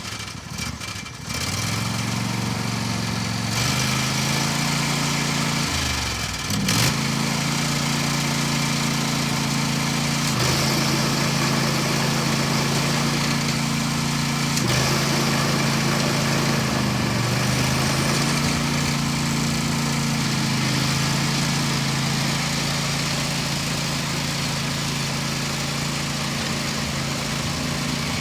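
John Deere 155C lawn tractor engine catching just after starting, then running at a steady speed. About six seconds in, the engine speed dips briefly and there is a sharp click, with a few smaller dips later.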